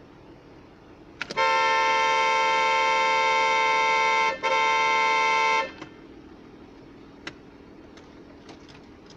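Car horn sounding in one long blast of about three seconds, a brief break, then a second blast of just over a second.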